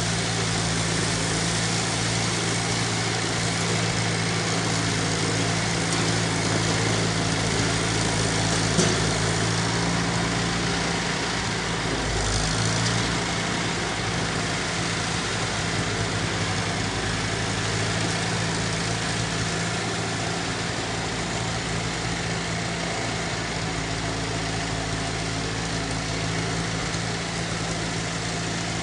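International 2444 tractor's gasoline engine, freshly fitted with new points and a cleaned carburetor, running steadily, with a brief change in its note about twelve seconds in.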